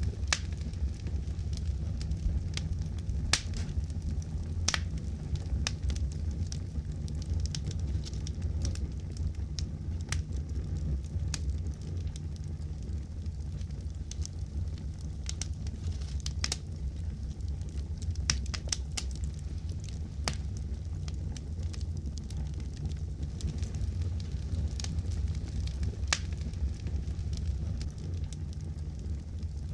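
Wood campfire burning, with frequent sharp crackles and pops of burning logs over a steady low rumble.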